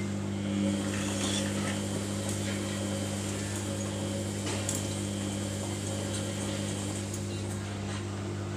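Samsung front-loading washing machine humming steadily in service mode, with a few faint clicks.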